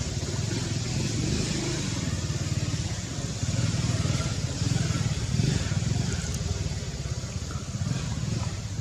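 A motor vehicle's engine running steadily, a loud rumble with a hiss above it.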